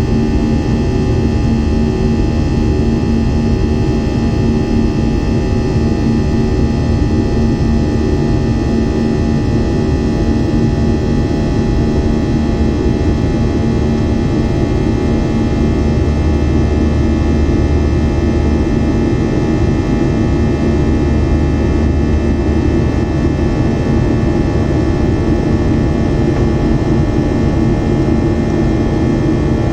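Steady cabin noise inside a Boeing 737-700 in flight: the CFM56-7B jet engines and airflow. Several fixed whining tones sit over a low rumble and hiss, and the noise stays constant throughout.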